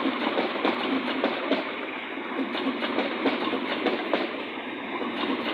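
Train passing close by, its wheels clattering over the rail joints with many irregular clicks and knocks over a steady rumble.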